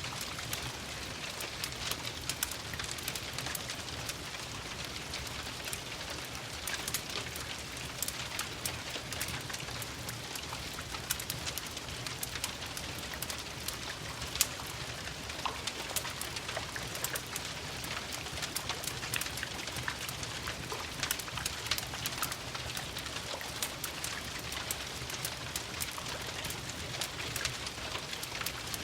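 Steady rain pattering, with a dense scatter of small sharp drop ticks throughout over a faint low hum.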